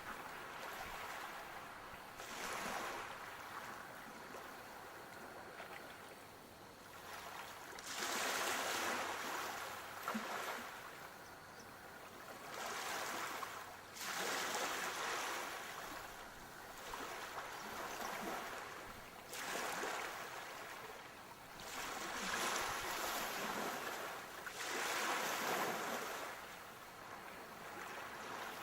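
Sea waves breaking and washing in, surging every few seconds, then easing back between breakers.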